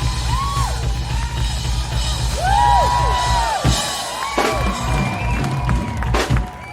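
Live band music with a driving drum kit and heavy bass, and rising-and-falling crowd whoops over it. The music thins out near the end.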